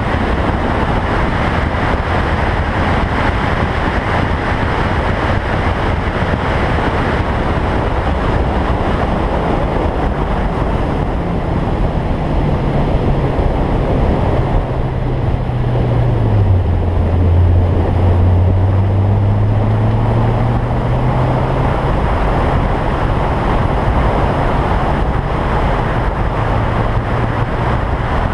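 Heavy wind rush over an outside-mounted onboard camera at track speed, with the Toyota Sprinter Trueno's engine running underneath. About halfway through the engine note falls as the car slows for a corner, then climbs again as it accelerates out.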